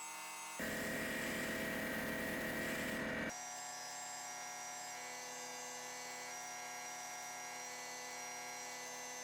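A steady machine hum, like a small electric motor or power tool running, that turns louder and noisier about half a second in and drops back abruptly about three seconds in.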